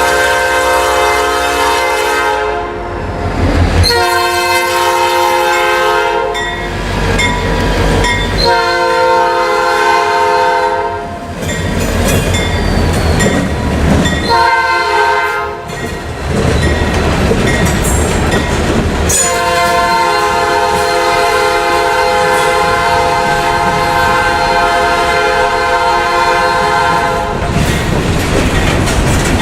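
Nathan Airchime P5 five-chime horn on an EMD GP40-2 locomotive sounding five blasts, the last one long, over the rumble of the passing train.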